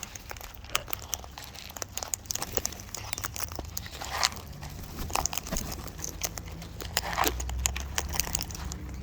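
Birds feeding at close range: a dense, irregular run of small clicks, crunches and crackles of beaks pecking and cracking seed.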